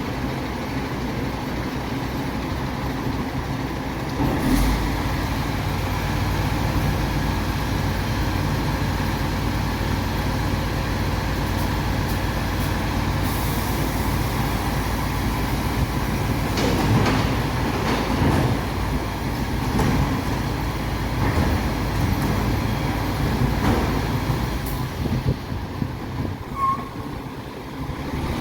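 MAN TGS 26.320 garbage truck's diesel engine running steadily, stepping up to a higher, louder speed about four seconds in, with several short knocks and clanks in the second half.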